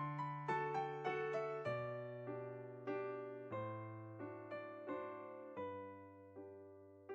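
Background solo piano music: a slow melody of struck notes over low bass notes, the notes coming further apart toward the end.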